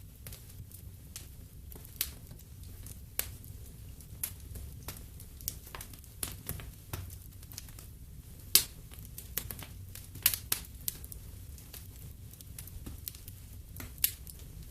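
Wood fire in a fireplace crackling: irregular sharp pops and snaps over a low steady rumble of burning, with one louder pop a little past the middle.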